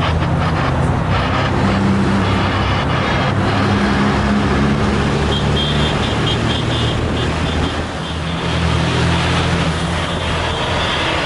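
Heavy truck's diesel engine pulling steadily under load, heard from the cab; it eases off briefly about eight seconds in, then pulls again.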